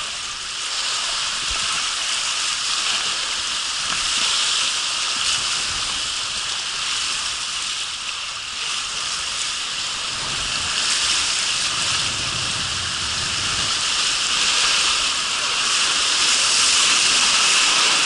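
Rushing water on a water slide, a steady hiss that swells louder near the end, with a low rumble a little past the middle.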